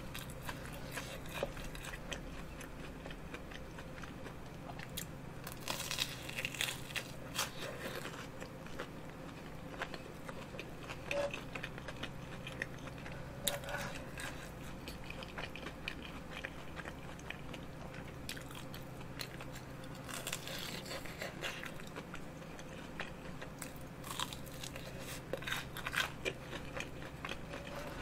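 A person chewing and biting into a fried sausage-and-rice-cake skewer (sotteok) close to a microphone. Crunchy bites come in clusters every few seconds between stretches of softer chewing.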